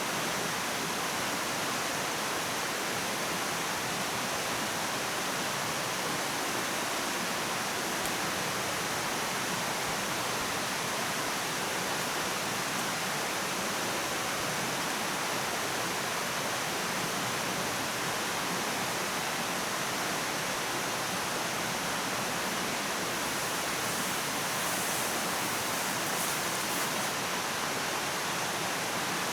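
A steady rushing noise of running water, with a few faint high ticks near the end.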